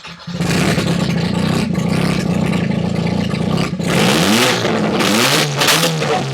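Mazda RX-7 FD3S's 13B twin-rotor rotary engine, with no exhaust fitted, catching from cranking and running loud. It is then revved in a few quick blips between about four and six seconds in.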